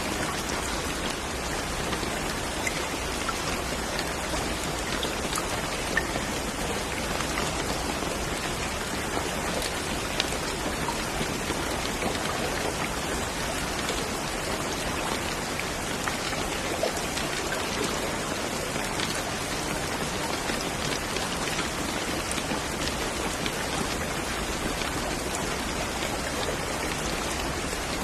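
Steady rain falling, a continuous hiss with individual drops pattering on a surface.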